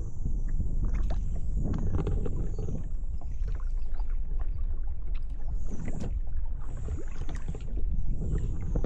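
Kayak paddle strokes splashing in the lake water at an uneven pace, over a steady low rumble on the microphone.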